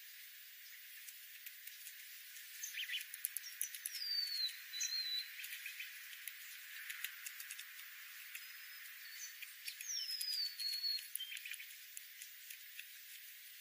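A bird calling: a high whistle that slides downward into a short lower note, given twice about six seconds apart, over scattered faint clicks and ticks.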